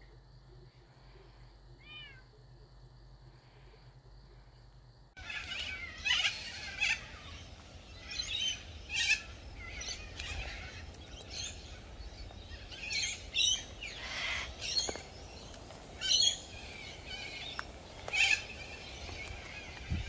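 Outdoor birds chirping and calling, many short sharp calls repeated over a low rumble. This starts suddenly about five seconds in, after a faint steady hum.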